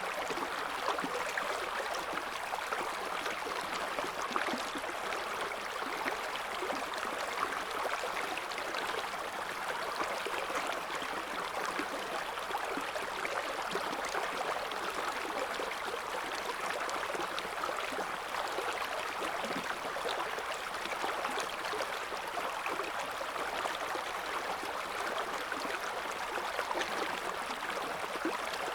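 A shallow river flowing steadily, its water babbling and splashing over stones in an even, unbroken wash.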